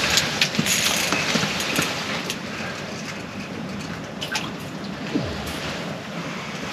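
Strong wind blowing across the ice, a steady rushing noise with scattered light ticks and taps.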